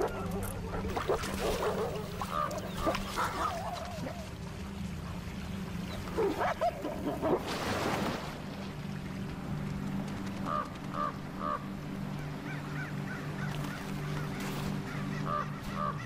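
Birds calling in short repeated honks, in small clusters, over a low steady hum, with a loud rush of noise about seven seconds in.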